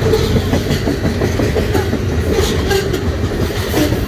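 Canadian Pacific freight train of covered hopper cars rolling steadily past, steel wheels clacking over the rail joints above a continuous low rumble.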